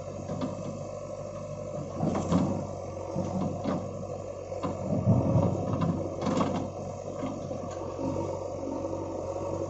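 Diesel engine of a JCB 3DX backhoe loader running steadily while it loads a tractor trolley, with a few sharp metal clanks and heavier thuds, loudest about two and five seconds in.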